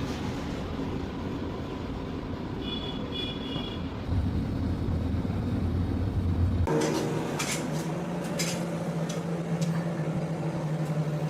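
Machinery running with a steady low hum. About two-thirds of the way through, it switches abruptly to a different, higher steady hum with a run of sharp clicks or knocks.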